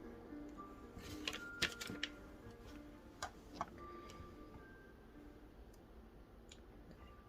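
Soft background music with short held notes, and a computer keyboard clicking in a few scattered keystrokes, most of them in the first two seconds.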